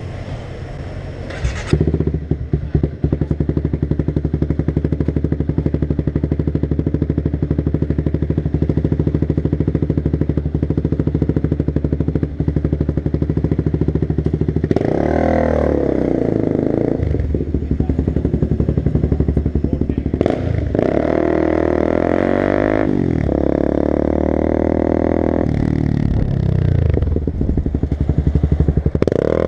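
Sport motorcycle engine starting up about two seconds in and idling steadily, then revving and accelerating away through several gear changes, its pitch climbing and falling back with each shift.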